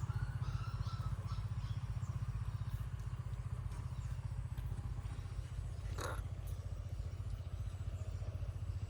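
A steady low motor hum with a fast, even pulse, and a brief sharp sound about six seconds in.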